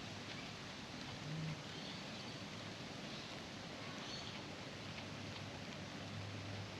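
Quiet outdoor bush ambience: a steady low background hiss with a few short, faint high bird chirps.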